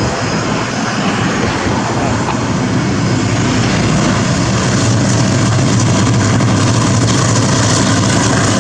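Diesel train engine running with a steady low drone over rolling noise, growing louder about four seconds in as the train comes closer.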